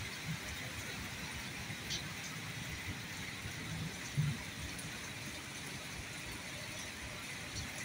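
Steady rain falling, an even hiss with faint scattered drip ticks and a soft low thump about halfway through.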